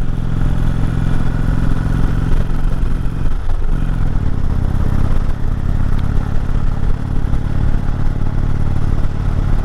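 Indian Chieftain's air-cooled V-twin running under steady load on a climb, with a brief dip about three and a half seconds in before it picks up again, and wind rushing past.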